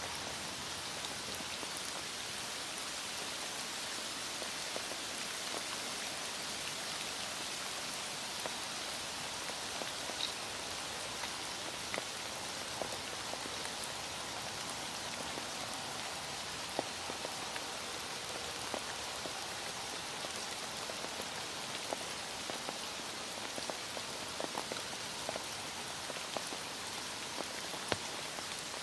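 Heavy rain falling steadily, with scattered sharper drop ticks, more of them in the second half.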